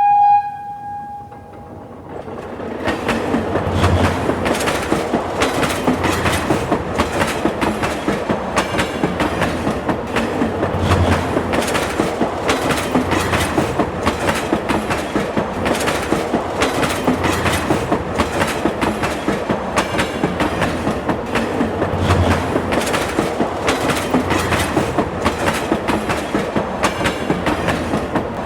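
A short single-note train horn blast, then a train running along the rails with a steady, even clickety-clack of wheels over rail joints, about two to three clacks a second, over a continuous rumble.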